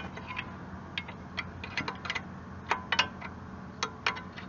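Metal hand tools clinking and ticking against the backhoe's control linkage as nuts are worked on, in irregular sharp clicks over a steady low hum.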